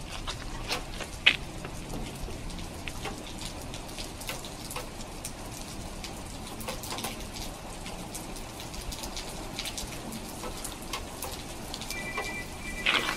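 Steady rain falling, with scattered drops ticking on nearby surfaces. Near the end comes a brief steady high electronic tone.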